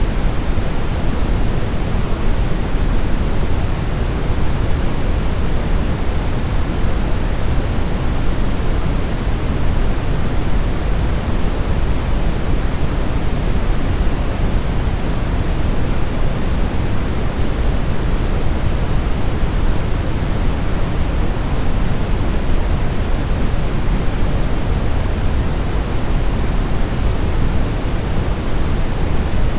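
Brown noise: a steady, even hiss-like rumble weighted toward the low end, with no changes or events.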